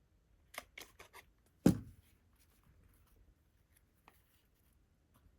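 Paper-crafting handling on a work table: a few light clicks and paper rustles, then one sharp thump against the tabletop, followed by faint ticks.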